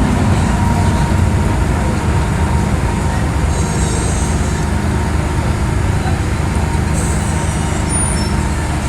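MTR M-Train electric multiple unit heard from inside the carriage while running, with a steady loud rumble of wheels and running gear. Faint high squeals come in briefly about midway and again near the end.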